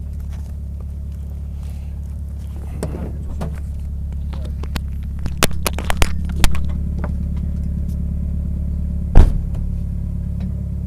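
Rally car engine idling steadily, heard from inside the cabin while the car stands still. A run of sharp clicks and knocks comes around the middle, and one loud knock about nine seconds in.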